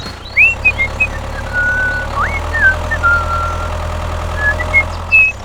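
A steady low motor-like hum with a string of short whistled chirps over it, some sweeping up in pitch and some held briefly.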